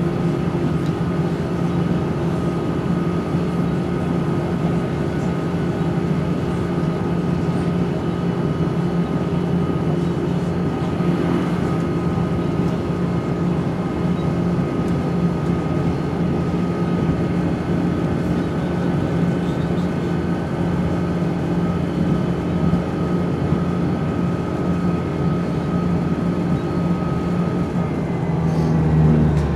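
Cabin sound aboard a Class 170 Turbostar diesel multiple unit under way: a steady low drone from the underfloor diesel engine and drivetrain with a high whine held at one pitch over it. Near the end the whine drops in pitch and the drone changes.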